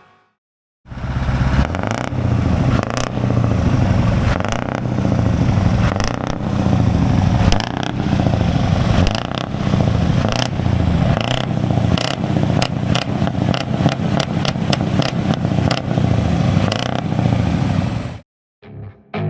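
Scania V8 truck engine revved again and again through a Greek-style tuned exhaust, with sharp cracks and pops between the revs. It starts about a second in and cuts off suddenly near the end.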